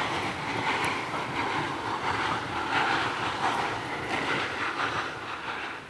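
Steam special train hauled by Ol12-7 running on the line: a steady rushing rumble with irregular knocks, dropping away sharply at the end.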